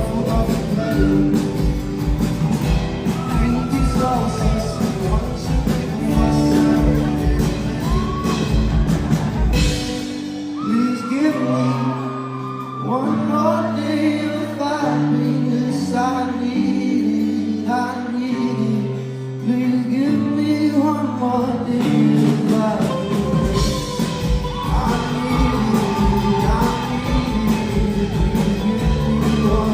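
Live pop song played by a band with singing over it. About ten seconds in the drums and low end drop away for a sparser sung passage, and the full band with its beat comes back in about twenty-three seconds in.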